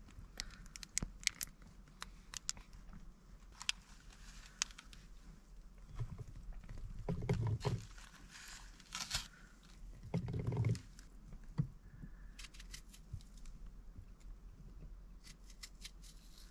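Small clicks, ticks and crinkling of things being handled in a small enclosed space, with two short, low, muffled thumps about seven and ten seconds in.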